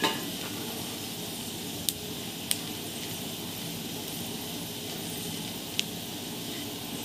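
Slivered almonds, pistachios, cashews and chironji frying in a little ghee in a nonstick pan: a steady low sizzle, with a few light clicks as a spatula stirs and taps the pan.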